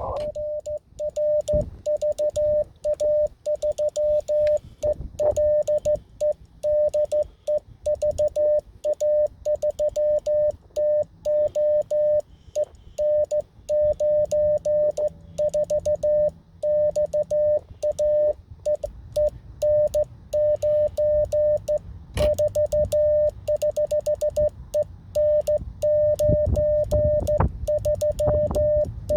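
Morse code (CW) from an amateur radio on a 47 GHz rain-scatter contact: one steady mid-pitched tone keyed in dots and dashes, over a faint background hiss. A single sharp click comes about three-quarters of the way through.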